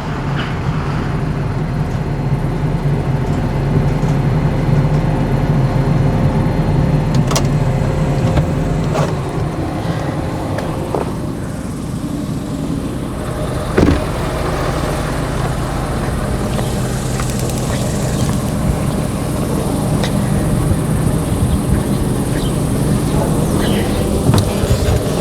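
Vehicle engine running steadily at low speed, with a few sharp knocks and clanks about 7, 9 and 14 seconds in.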